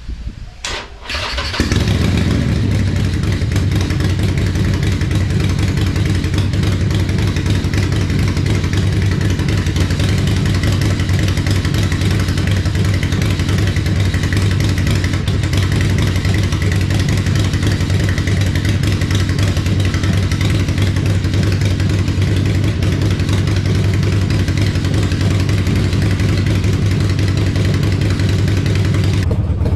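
Harley-Davidson Forty-Eight Sportster 1200's V-twin engine cranking and catching a second or two in, then idling steadily.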